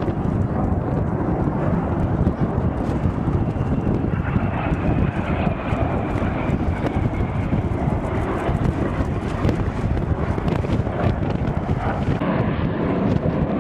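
Fixed-wing aircraft engine noise, a steady rushing drone with a faint whine that slowly falls in pitch a few seconds in as the aircraft passes.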